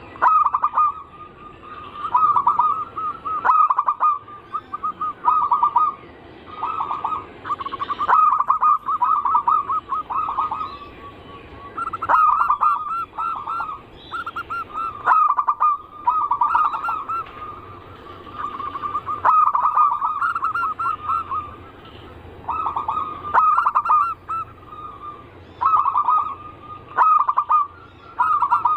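Zebra dove (perkutut) cooing: repeated bouts of rapid, rolling notes, each a second or two long and coming every few seconds.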